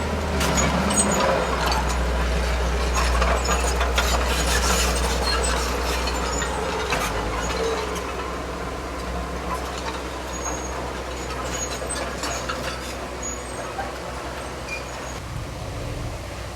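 Heavy diesel earthmoving machine running with a low engine drone and a scatter of metallic clanks and rattles, which thin out after about seven seconds as the sound grows gradually quieter.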